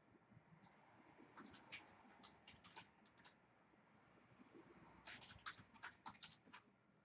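Faint computer keyboard typing in two short runs of clicks, one about a second and a half in and another around five seconds in.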